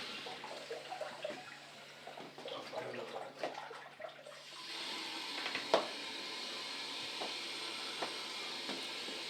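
Water running from a restroom sink tap, with irregular splashing for the first few seconds and then a steady hiss of running water with a few sharp clicks.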